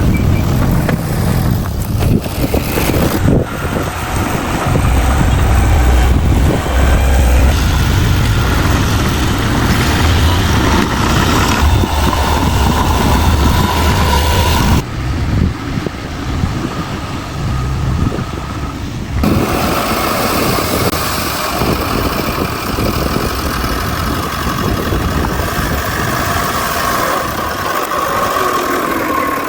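Bulldozer's diesel engine working, a steady heavy low rumble. About halfway through, the higher sounds drop away for some four seconds, then return.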